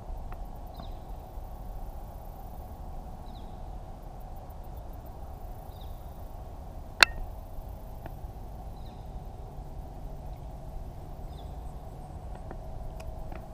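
Outdoor ambience: a bird gives short high chirps every couple of seconds over a steady low background hum. One sharp click comes about seven seconds in.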